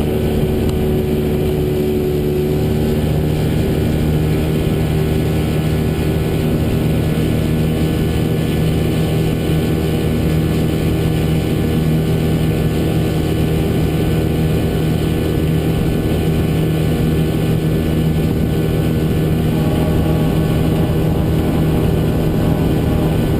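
Motorboat engine running at a steady cruising speed, a constant drone that holds unchanged throughout.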